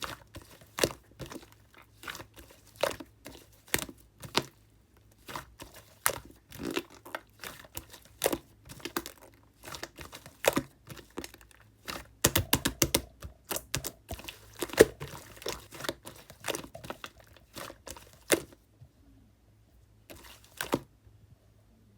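Pink slime being squeezed and poked by hand, giving irregular sticky clicks and small air-bubble pops. A dense flurry of pops comes about twelve seconds in, with a short lull near the end.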